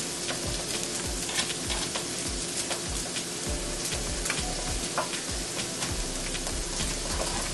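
Steady sizzle of food frying in a pan, with scattered light clicks and scrapes of forks shredding soft roasted butternut squash on a foil-lined tray.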